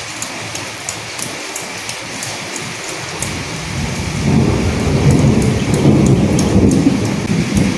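Steady rain with scattered sharp drips, joined a few seconds in by a low roll of distant thunder that swells and then fades near the end.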